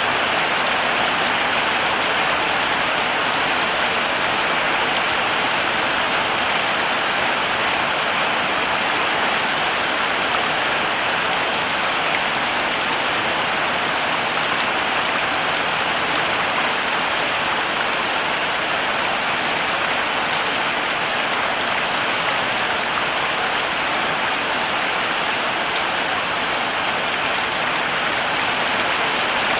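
Heavy rain falling steadily, a dense even hiss of drops with no breaks or single events standing out.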